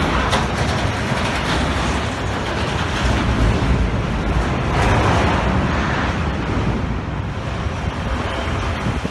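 A steady, rough rush of noise with a deep rumble underneath, as of wind buffeting the microphone on a boat moving over water.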